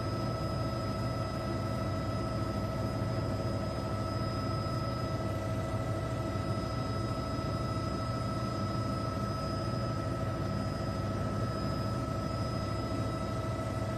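Steady machine drone, low and constant, with several fixed whining tones over it and no change in pitch or level.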